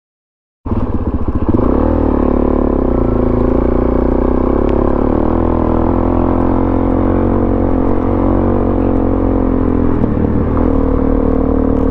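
Suzuki DR-Z400SM's single-cylinder four-stroke engine running at a fairly steady throttle while being ridden off road. It comes in suddenly a little under a second in, after a moment of silence.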